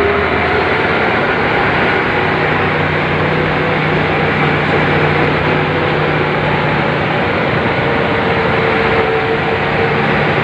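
Excavator engine running steadily under a loud, even noise, with a steady low hum.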